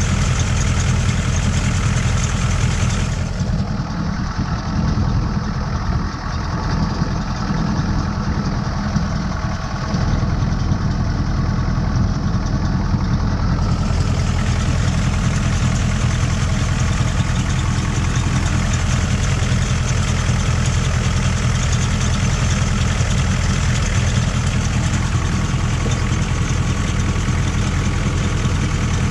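The 6.2-litre Detroit diesel V8 of a 1985 GMC 3500 pickup running steadily at constant engine speed, a low even drone with no revving.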